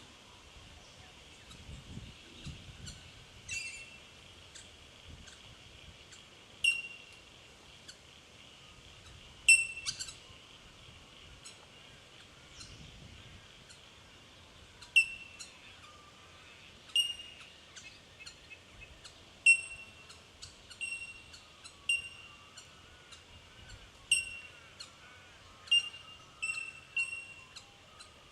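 Bell miners calling: short, sharp, bell-like 'tink' notes from several birds, some close and loud, others fainter. The notes come singly and scattered at first, then more often in the second half.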